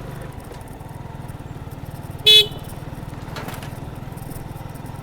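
Motorcycle engine running steadily while riding: a low, fast-pulsing drone, likely the Suzuki Gixxer 155's single-cylinder engine. About two seconds in, one short horn beep, the loudest sound.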